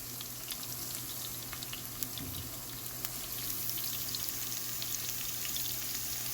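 Chopped garlic and green chillies sizzling in hot oil in a pan: a steady hiss with scattered small crackles and pops.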